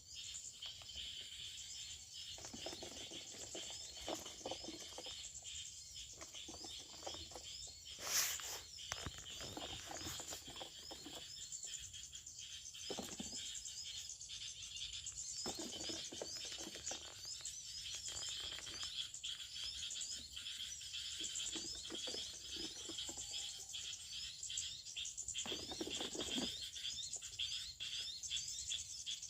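Forest ambience: a steady high-pitched insect chorus with small bird chirps over it, occasional rustling, and one sharp snap about eight seconds in.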